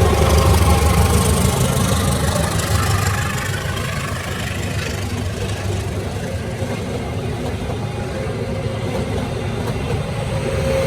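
Road traffic with vehicle engines running and idling, louder for the first three seconds and then easing to a steady level.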